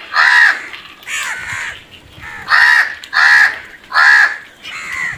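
Crows cawing: a run of about seven harsh, arched caws, roughly one every half to three-quarters of a second, some louder and some fainter.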